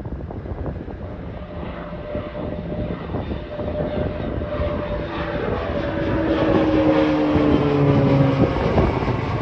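Airplane engines during a takeoff, growing louder as the aircraft nears. Their tones drop slightly in pitch as it passes, loudest near the end.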